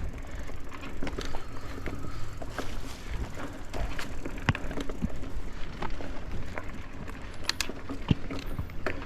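Mountain bike moving along a rough forest trail: scattered clicks and rattles from the bike over a steady low rumble.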